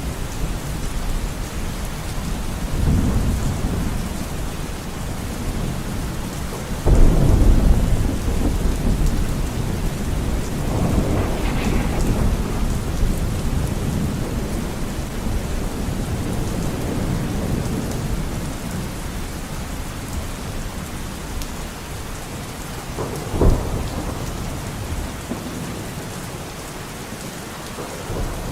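Steady rain in a forest with rolls of thunder: a loud rumble breaks in suddenly about seven seconds in, another swells soon after, and a sharper crack comes later on.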